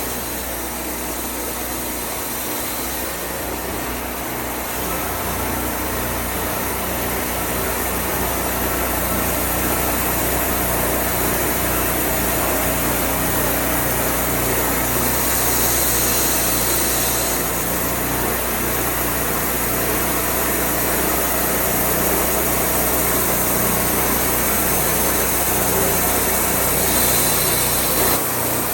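Wood-Mizer portable band sawmill running steadily: an engine hum under a continuous rush of noise, turning brighter and hissier for a couple of seconds about halfway through and again near the end.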